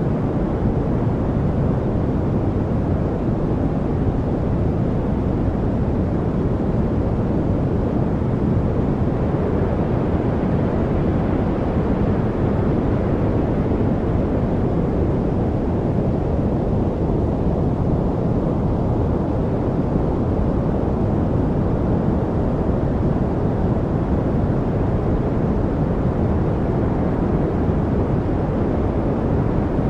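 Steady noise track of the kind played for focus, even and unchanging, with most of its weight in the low pitches and little hiss up top, closer to brown noise than to bright white noise.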